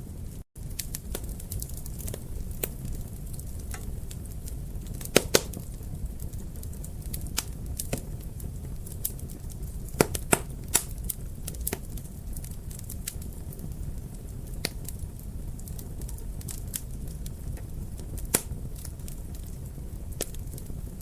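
Wood fire in a fireplace crackling: a low steady rumble of flames under irregular sharp pops, the loudest a pair about five seconds in and a cluster around ten seconds in. The sound drops out for a split second about half a second in.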